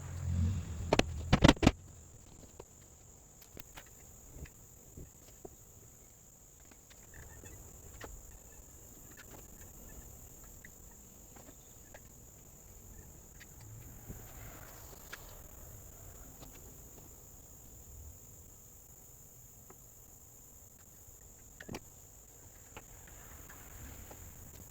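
Steady high-pitched drone of insects calling. A cluster of loud knocks in the first two seconds and a few faint taps later.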